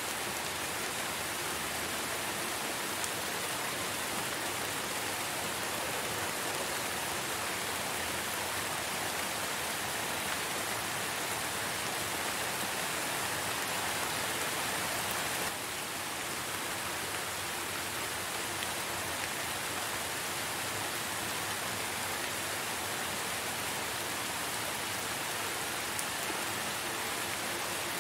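Steady rain falling: an even hiss with a few faint drop ticks, dipping slightly in level about halfway through.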